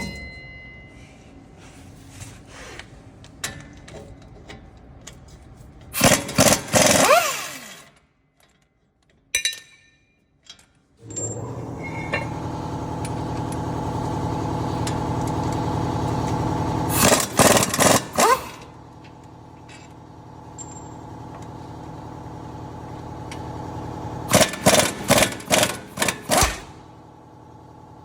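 Impact wrench hammering in three bursts, the last and longest about two seconds, as the worn wheel hub bearing of a Dodge RAM 1500 is unbolted. A steady mechanical hum builds in the middle, between the bursts.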